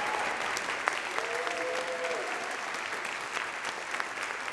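Congregation applauding with steady, dense clapping, and one voice calling out briefly about a second in.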